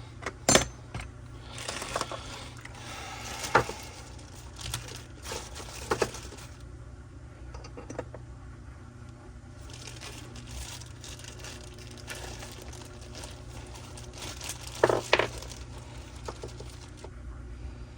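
Tools and small metal parts being handled on a workbench: scattered clinks and knocks with rustling in between. A sharp clink comes near the start and a cluster of knocks about fifteen seconds in.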